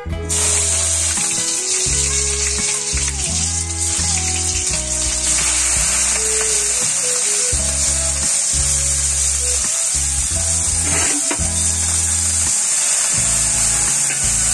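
Vegetables frying in hot oil in an iron kadai: a loud, steady sizzle that starts suddenly as they are tipped in. Background music plays underneath.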